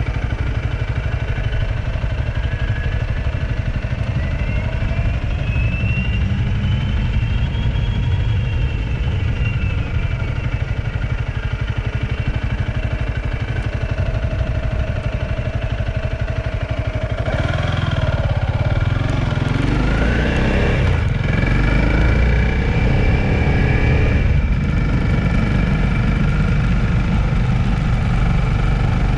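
A vehicle engine running steadily while driving, with road noise. About two-thirds of the way in the engine gets louder and its note rises, as if accelerating.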